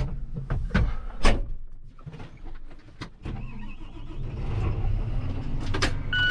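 Tractor engine running, with several sharp clicks and clunks in the first few seconds; about halfway through the engine note grows louder and steadier.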